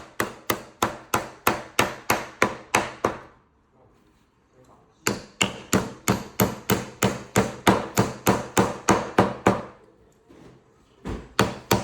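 Hammer driving a nail into wood: three runs of quick, even blows, about three or four a second, with two short pauses between them.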